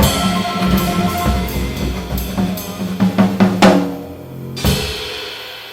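Live jazz band playing the ending of a swing tune: drum kit hits and fills over sustained bass notes, building to a cluster of accented hits, then one final hit just under five seconds in that rings out and fades.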